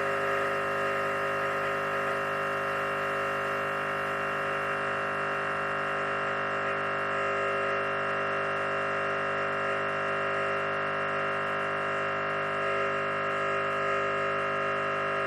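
Espresso machine pump running steadily, a constant electric hum, as it backflushes cleaning solution against a blanking disc in the group head.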